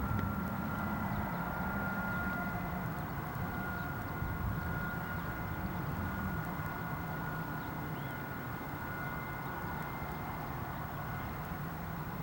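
A steady engine drone, a low rumble with a constant whine over it, running evenly throughout.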